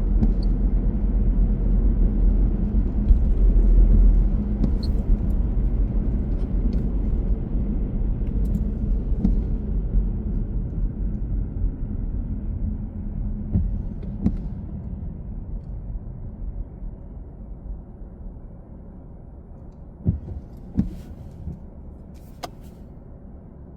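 Car road noise and engine rumble while driving. It fades gradually over the stretch, and a few short knocks come near the end.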